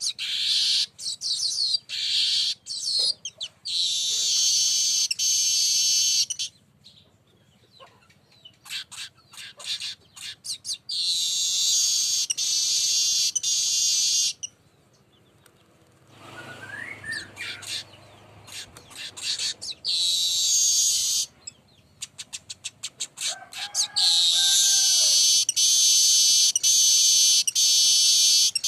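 Manyar weaver song: runs of quick dry ticks that speed up and lead into long, high, buzzy wheezing phrases. This happens three times with short gaps between, and a brief lower call sounds faintly in the second gap.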